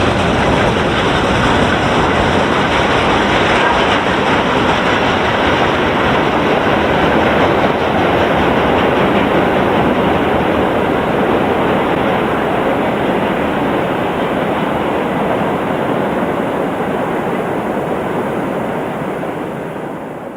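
A loaded freight train rolling past at speed, a steady loud rumble of wagon wheels on the rails, fading away near the end.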